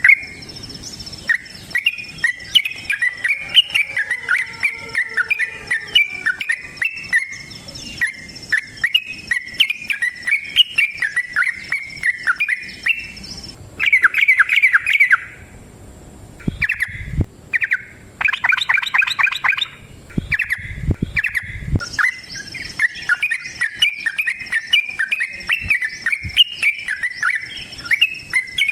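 Yellow-vented bulbul (trucukan) singing a long, rapid run of bubbly chirping notes. The run has a louder, denser flurry and a couple of short pauses midway. A faint steady high-pitched whine runs under much of it.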